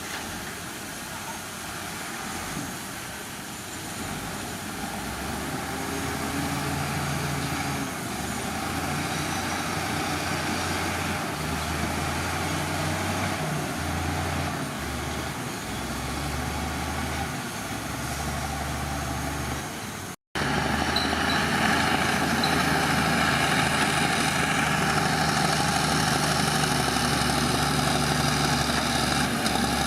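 Heavy earthmoving machinery's diesel engines running, the low engine note rising and dropping in steps over the first part. After a brief dropout about two-thirds through, the engine sound is louder and steadier.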